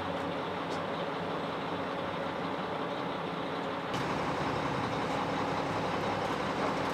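Heavy truck engine running steadily, getting a little louder about four seconds in.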